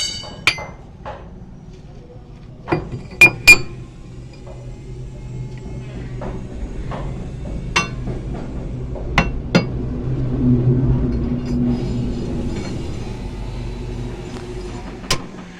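Metal tools striking and clinking on truck suspension or axle parts: sharp, separate knocks a few seconds apart, the loudest two about three seconds in. A low engine hum swells through the middle and fades near the end.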